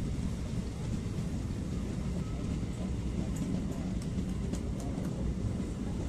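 A passenger train running at speed, heard from an open coach door: a steady low rumble of the wheels on the track, with a few short sharp ticks in the middle.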